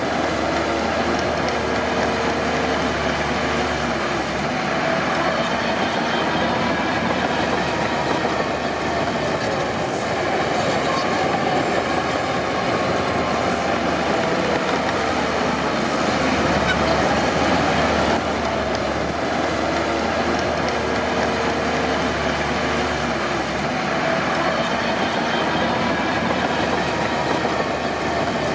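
Crawler bulldozer at work: diesel engine running under changing load, with the steel tracks clanking and squealing.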